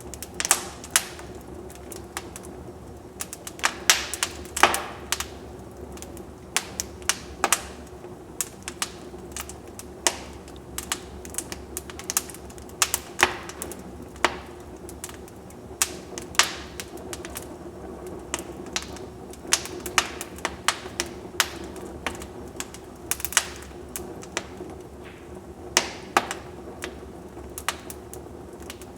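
Wood fire burning in a fireplace, crackling with irregular sharp pops and snaps over a low steady background.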